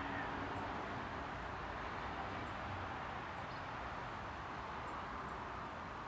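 Several faint, very high, short bird calls scattered over a few seconds, over a steady background rumble of outdoor noise.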